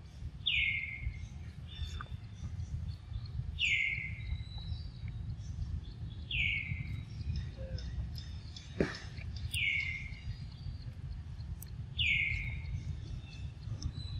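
A bird calling: a short down-slurred whistle, repeated five times about every two and a half to three seconds, over a steady low rumble.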